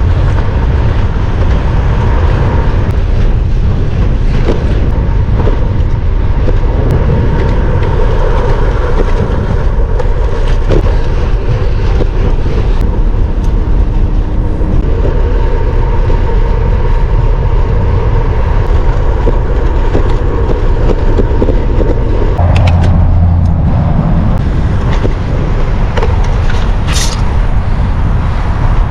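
Steady, loud rush of wind and road noise on a microphone riding along on a moving road bike, with motor traffic in the mix. A deeper rumble swells for a couple of seconds about three-quarters of the way through.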